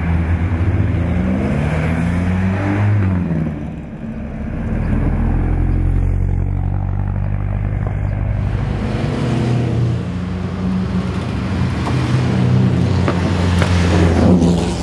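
Vintage sports-racing car engines running in a column on the street, led by a 1955 Ferrari 750 Monza's three-litre inline-four accelerating. The engine note rises and falls about two to three seconds in, then runs fairly steadily.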